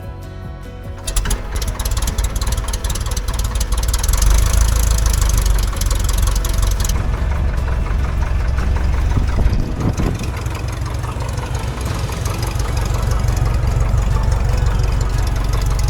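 Piper J3 Cub's Continental A65 air-cooled flat-four engine catching on a hand-propped start about a second in, then running with a steady low rumble.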